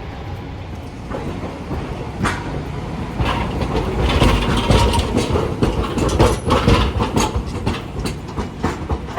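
Hiroshima Electric Railway streetcar rolling by, its wheels clattering and knocking over the rail joints. The rumble and clatter build from about three seconds in, are loudest in the middle, and ease off near the end.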